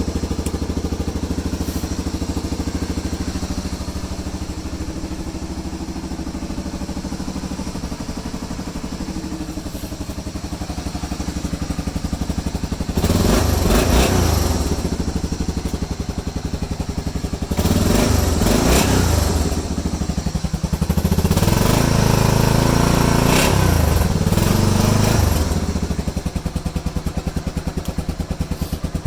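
ATV engine idling with a steady pulse, revved up three times in the second half.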